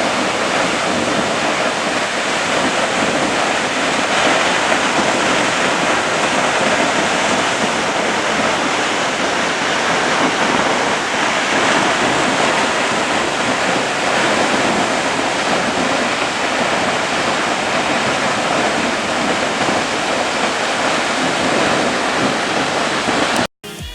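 Waterfall: a steady rush of falling water that cuts off suddenly near the end.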